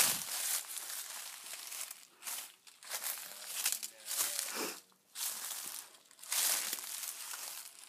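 Footsteps crunching through dry leaves, about one step a second.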